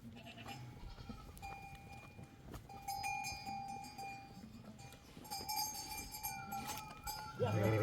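Bells on grazing sheep and goats clinking on and off, with a bleat near the end.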